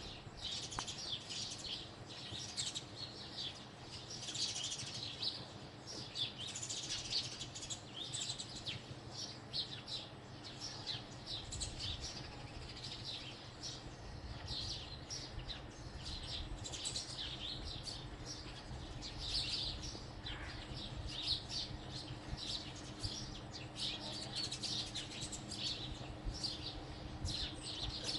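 Several house sparrows chirping without a break: many short, overlapping chirps.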